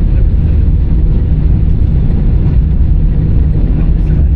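Airbus A319 cabin noise while taxiing after landing: a loud, steady low rumble from the idling engines and the rolling airframe, with a faint steady hum.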